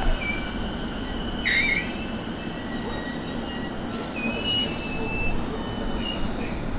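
A JR E217-series electric train rumbling slowly to a stop, with thin, high brake squeals throughout and one loud squeal about a second and a half in.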